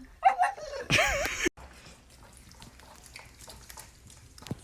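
A dog whining with a wavering, rising and falling pitch for about a second, cut off abruptly; then low room sound with a single click near the end.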